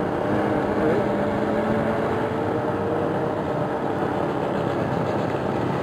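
Jeep Wrangler engine running steadily as it crawls up a loose dirt slope, a constant low drone with no revving.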